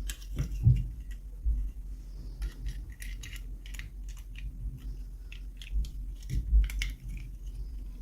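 Hands opening small toy packaging: scattered crinkles and small clicks, with louder dull handling thumps about half a second in and again around six and a half seconds in.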